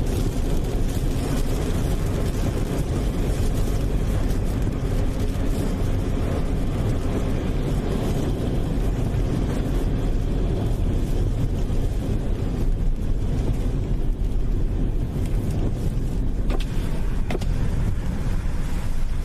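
A steady low rumbling noise with no clear pitch, even in level throughout, with a few faint clicks near the end.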